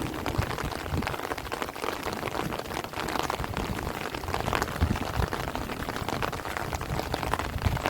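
Heavy rain falling steadily on rice plants and trees, a dense patter of drops, with gusts of wind rumbling on the microphone now and then.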